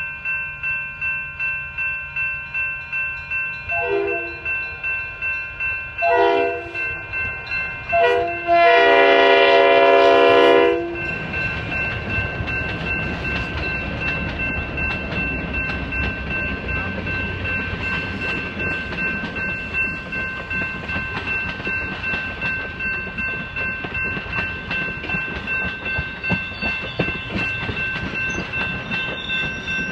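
A railroad crossing bell rings about twice a second throughout. A locomotive horn sounds the grade-crossing signal: two blasts, a short one, then one long one. The passenger train then passes, its wheels rumbling and clacking over the rails under the bell.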